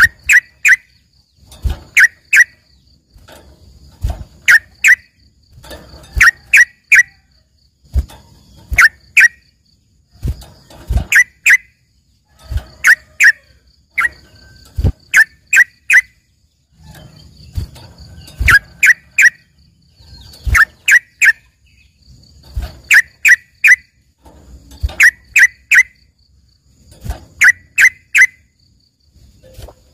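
Yellow-vented bulbul (trucukan) calling in short bursts of two to four sharp notes, repeated about every two seconds. It is a trained bird singing in the full style of a cucak ijo.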